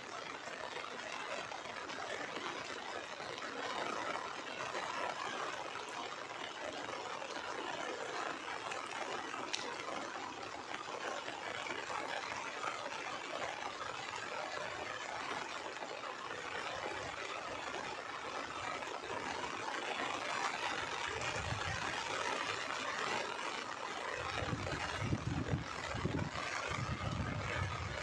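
Heavy rain falling steadily, an even hiss. A few low rumbles come in over the last several seconds.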